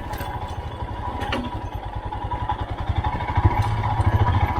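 Royal Enfield Himalayan BS6's single-cylinder engine running at low revs as the motorcycle crawls over loose rocks, with a sharp knock about a second in. The engine grows louder about three and a half seconds in.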